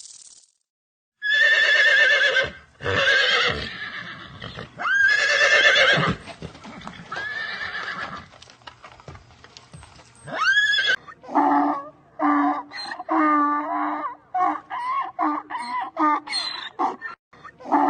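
Horse whinnying: several long calls with a quavering pitch, one ending in a rising squeal, then a quick run of shorter, lower calls.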